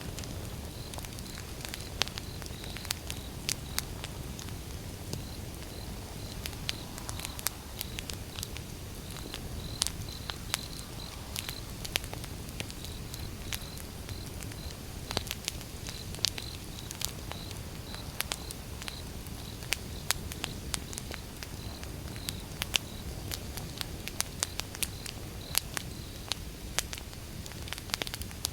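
Wood fire burning: irregular sharp crackles and pops from the logs over a steady low rumble of the flames.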